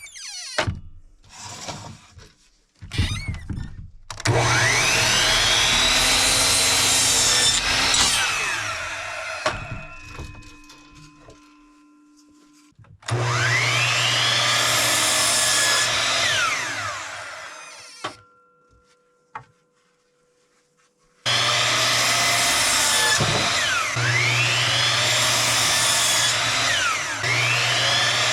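Electric power saw cutting tongue-and-groove boards to length: three long runs, starting about four, thirteen and twenty-one seconds in, the first two winding down after each cut, after a few light knocks at the start.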